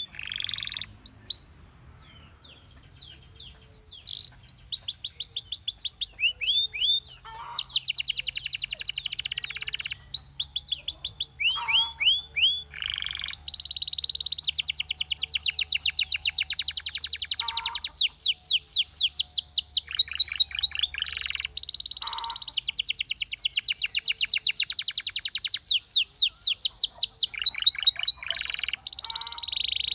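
Belgian canary singing a long song of fast rolling trills, each made of rapidly repeated high notes, with short pauses between phrases and a brief lull near the start.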